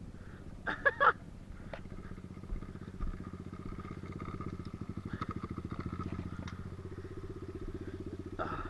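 Pit bike's small engine idling steadily with an even, fast pulse, swelling slightly for a couple of seconds in the middle.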